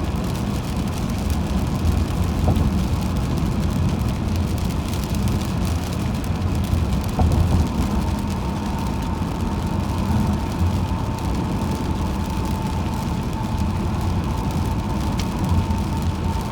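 Steady road and engine noise of a car driving on the highway, a constant low rumble of tyres and motor. A faint steady whine joins about halfway through.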